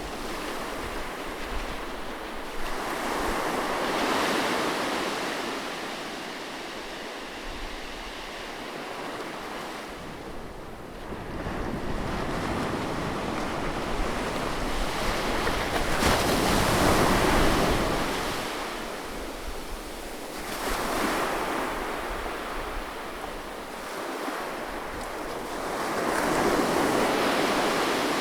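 Ocean surf on a beach: waves breaking and washing in, swelling and fading in slow surges every few seconds over a steady low rumble.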